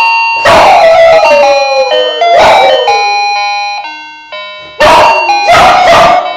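A dog howling along to a melody of clear, bell-like notes, four loud howls that each slide down in pitch, the last two close together near the end.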